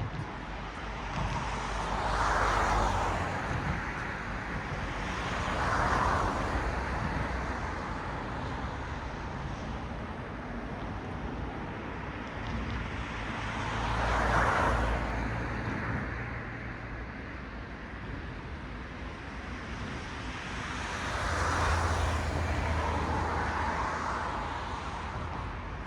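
Cars passing one at a time on a road, each swelling in tyre and engine noise and then fading away, about five passes in all over a steady traffic hum.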